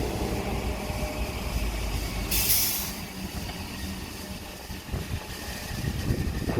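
Red Rattler electric train rumbling low and steadily at the station, with a short hiss of released air about two and a half seconds in.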